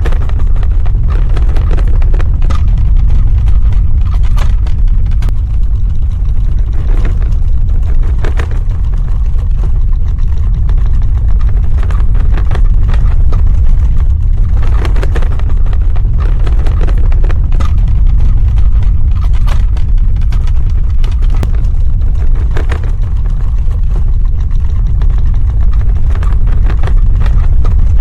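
Earthquake rumble sound effect: a loud, continuous deep rumble with scattered faint crackles and rattles over it.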